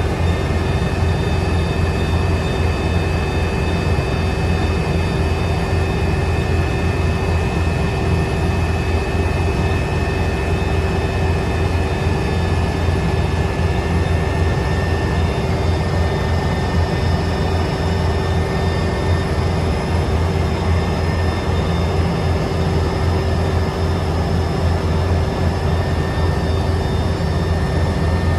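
Helicopter in flight: a loud, steady engine and rotor drone with thin, steady high whining tones over it.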